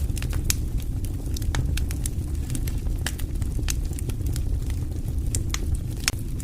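Wood fire in a fireplace crackling: irregular sharp pops and snaps over a steady low background of the burning fire.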